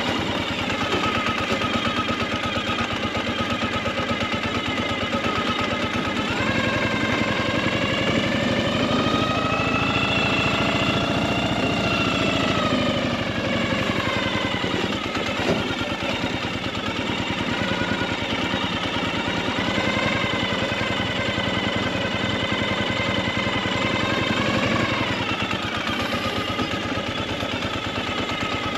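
Motorcycle engine running while riding, with a fast rattly beat. Its pitch climbs and drops twice as the throttle is opened and closed.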